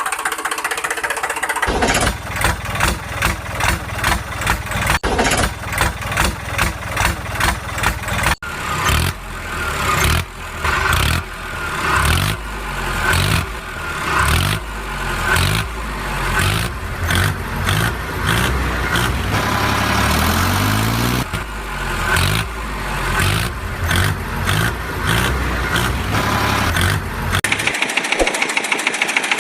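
Heavy diesel engine working under load. From about two seconds in, it runs with a rhythmic pulsing about twice a second and briefly revs up; the sound changes near the end.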